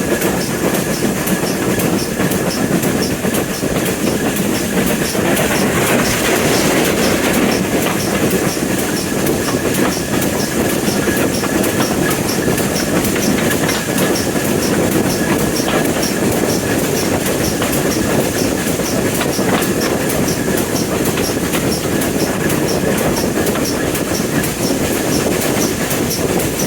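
Train running on the line, wheels clicking over the rail joints in a steady, even rhythm.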